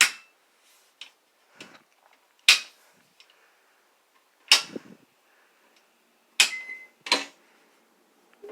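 Circuit breaker switches in a household panel snapped back on one at a time after the power tripped: five loud sharp clicks a second or two apart, with a few fainter clicks between.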